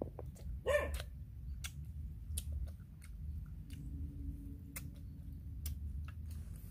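Close-up chewing of crunchy grilled frog: scattered sharp crunches and clicks, with a brief high whine about a second in.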